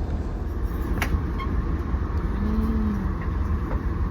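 Steady low rumble of a moving vehicle heard from inside, with a single sharp click about a second in.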